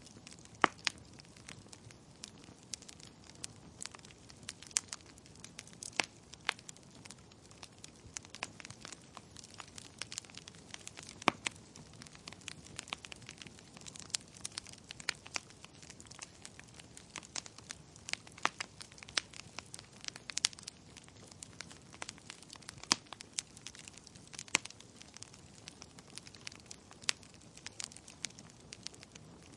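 Wood fire in a fireplace crackling: irregular sharp pops and snaps from the burning logs over a soft steady hiss.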